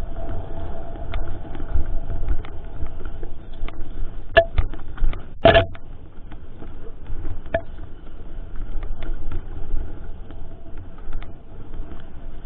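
Mountain bike riding over a rough forest trail, picked up by an action camera on the ride: a constant low rumble with rattling and scattered sharp clicks, and a loud clack about five and a half seconds in.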